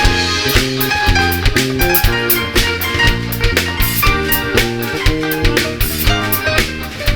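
Band playing an instrumental passage with electric guitar, bass and drum kit keeping a steady beat.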